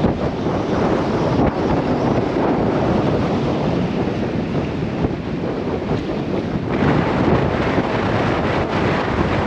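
Gale-force wind buffeting the microphone, a steady, loud rumbling roar, gusting a little stronger about two thirds of the way in.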